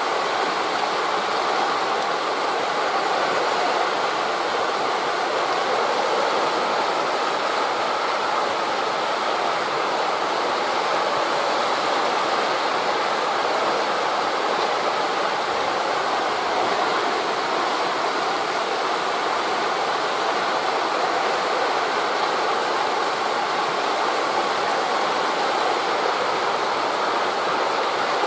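Steady rushing of wind through forest leaves, mixed with the wash of sea waves, with no single event standing out.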